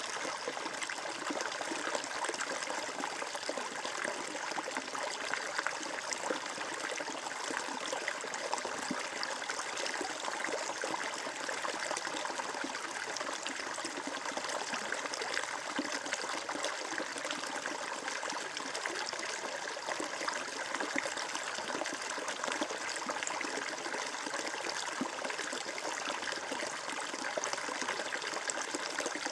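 Water flowing and trickling steadily, a constant babble of running water.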